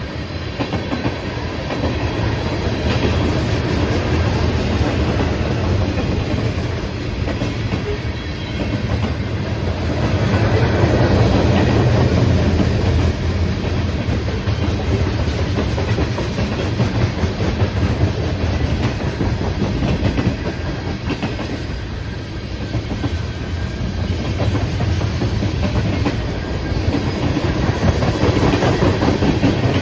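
A train rolling past, its cars clattering steadily over the rail joints, with the rumble swelling and easing as the cars go by.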